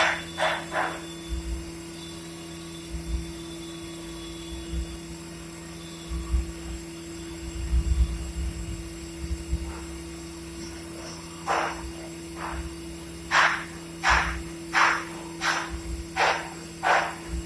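Steady hum of a Mori Seiki CNC machine, with scattered low thuds. In the last six seconds a run of short sharp sounds, about two a second, is louder than the hum.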